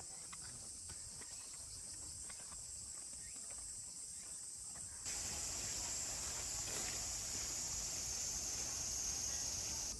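A steady, high-pitched chorus of summer insects buzzing outdoors, which jumps louder about halfway through and drops back at the end.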